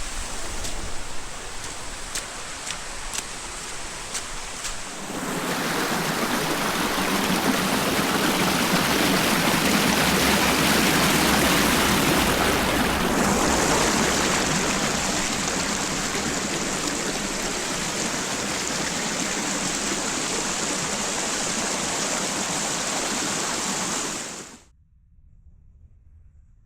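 Mountain creek water rushing steadily, heard in a few shots that change abruptly: quieter for the first few seconds, then much louder. It cuts off suddenly near the end.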